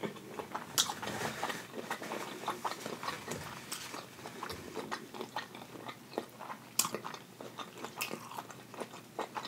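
Close-miked chewing of shrimp, with many short wet smacks and mouth clicks.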